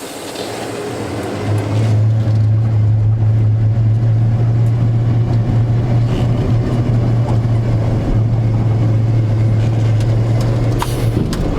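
Cummins B6.7 diesel engine of a dump truck pulling away and driving slowly, building over the first two seconds and then running steadily with a low drone.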